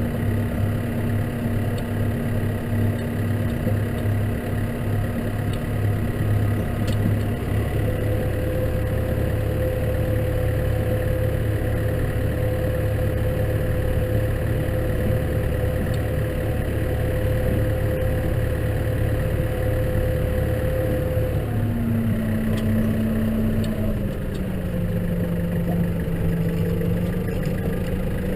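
Case tractor's diesel engine running steadily under way. Its pitch shifts a few times as engine speed changes: once about a quarter of the way in, and twice more in the last third.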